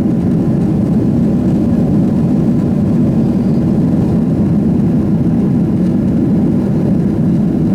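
Steady low rumble of engine noise and rushing air inside the cabin of a Boeing 777-300ER in flight, its GE90 jet engines running at power.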